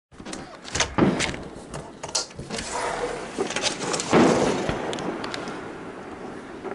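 A run of sharp knocks and clatters as a window is slid open. About four seconds in, a firework shell bursts with one loud boom that rumbles away over the next two seconds.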